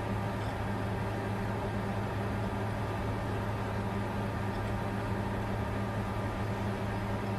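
Bitcoin mining computer running steadily: a constant low hum under an even rush of cooling-fan air.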